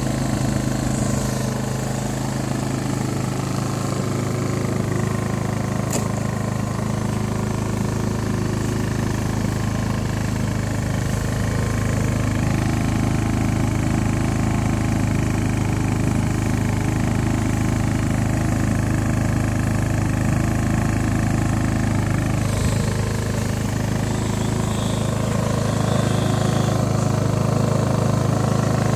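Hyundai 2000si inverter generator's engine running steadily.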